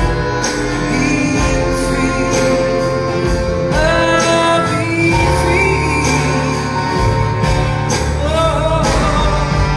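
Live band music: a full band with a steady bass and drum foundation, and a lead line that glides between notes several times.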